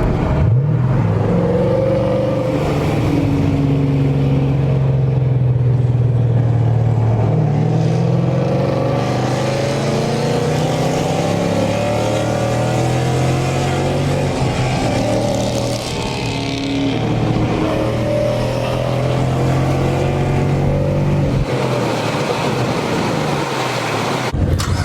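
Car engines running, their pitch slowly rising and falling as they rev, shifting about seven seconds in and dropping away a few seconds before the end.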